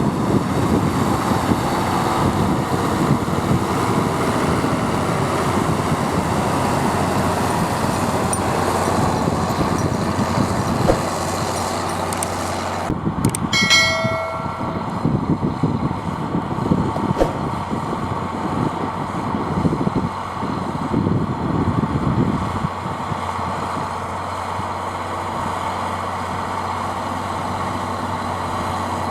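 Zetor Crystal 12145 six-cylinder diesel tractor running under load while pulling drag harrows, with a dense clatter from the harrows. About halfway through the sound changes abruptly, with a short high whistle-like tone, and near the end the engine runs steadier and a little quieter.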